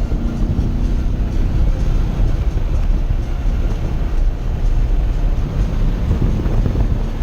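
Race car engine and road noise heard from inside the car: a loud, steady rumble.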